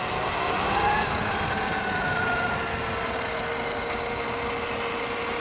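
Electric dirt bikes riding: a steady rush of wind and tyres, with a faint electric motor whine that slowly falls in pitch.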